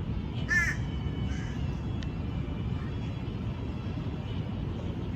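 A bird calling in the open: one loud call about half a second in and a weaker one about a second in, over a steady low background rumble.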